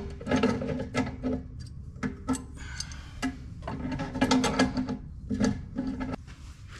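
Hand work on metal fittings for the compressor's air plumbing: irregular clicking, rattling and scraping of tools and parts in short bursts.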